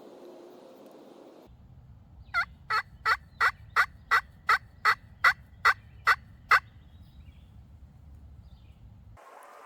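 A run of about twelve turkey yelps, nearly three a second, each note dropping sharply in pitch and the series growing a little louder toward the end.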